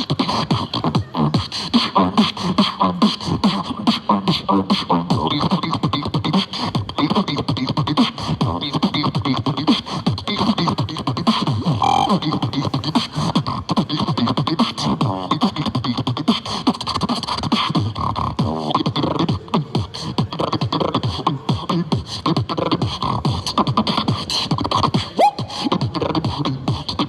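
Beatboxing: a fast, unbroken run of vocal percussion, quick mouth clicks and snare-like hits mixed with pitched vocal bass and hums.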